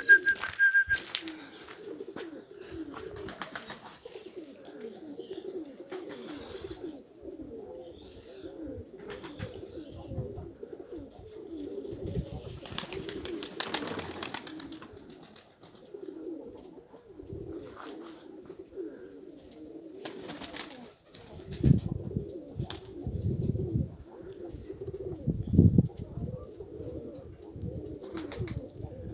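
Domestic pigeons cooing, many overlapping coos with no break. A rushing noise comes about halfway through, and a few loud low rumbles follow in the last third.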